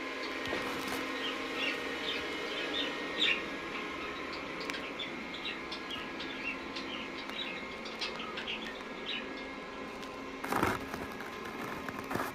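Pet parrots chirping and twittering in many short, quick notes. A brief rustling burst comes about ten and a half seconds in.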